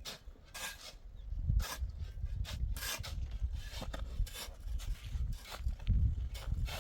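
Irregular scraping or rubbing strokes, about one or two a second, over a low rumble.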